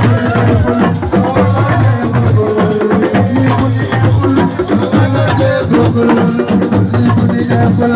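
Live assiko band music: drums and shakers playing a dense steady rhythm over a repeating bass line.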